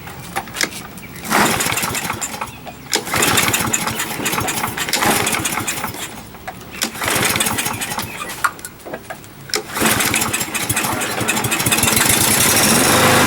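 Briggs & Stratton 625 EX engine on a push lawn mower being pull-started repeatedly, catching and sputtering in about four short bursts before running more evenly near the end. The engine starts hard and runs rough, which the owner puts down to a possibly dirty carburetor.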